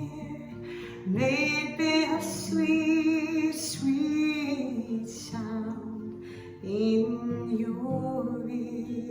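A woman singing a slow worship song to acoustic guitar, holding long notes with a wavering vibrato.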